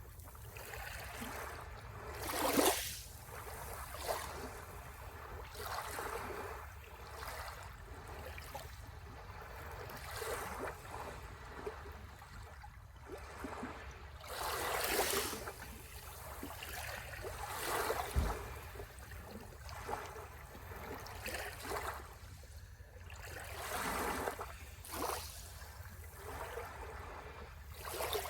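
Ocean waves breaking and washing on the shore, the wash swelling and falling away every few seconds, loudest about two and a half seconds in and again near the middle.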